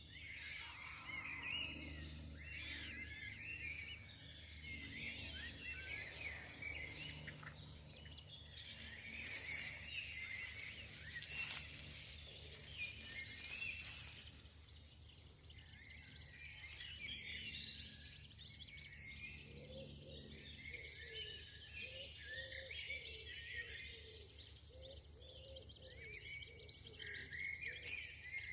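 Small birds chirping and warbling over a steady low background hum, with a patch of hiss in the middle. Late in the stretch a lower call repeats about twice a second for several seconds.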